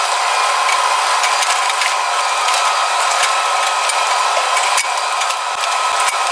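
Steady machine noise with a whine near the middle of the range, overlaid by irregular clicks and rattles.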